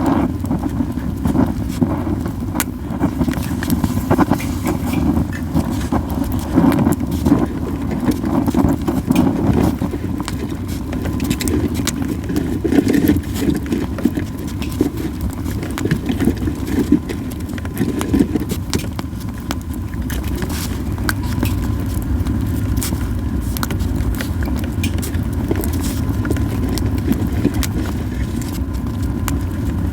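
Yew-wood campfire burning, a steady low rush of flames with frequent sharp crackles and pops.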